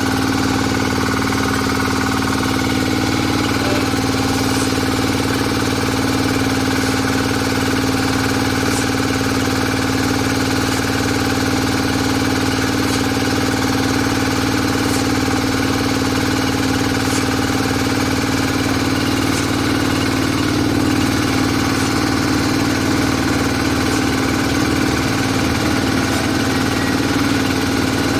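Diesel engine of a QTJ4-40 hydraulic interlocking block machine running steadily with a constant hum. A faint tick recurs about every two seconds.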